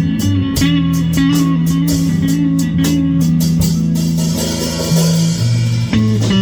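Live band jamming: electric guitar and bass guitar playing over a drum kit, with regular hi-hat strokes that give way to a cymbal wash midway.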